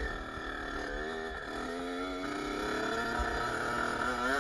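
Kawasaki KX65's small two-stroke single-cylinder engine running as the bike is ridden, its pitch wavering and dropping, holding steady for a moment, then rising again near the end as the throttle opens.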